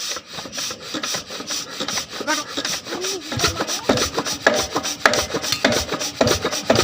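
A 14 HP diesel water-pump engine being turned over to start: an even, rasping run of strokes, several a second, that grows heavier from about three seconds in as the engine begins to fire.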